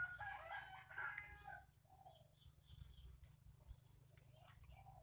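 Near silence, with a few faint distant bird calls and soft clicks.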